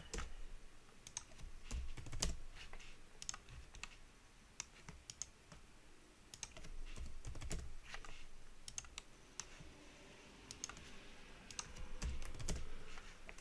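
Computer keyboard keys tapped in irregular clusters, with a sparser stretch near the middle.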